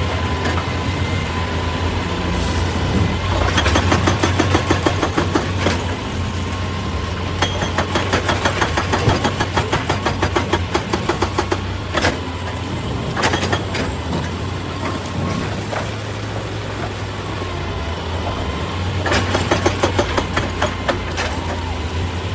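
Excavator's diesel engine running steadily, with several stretches of rapid, evenly spaced knocking over the engine noise.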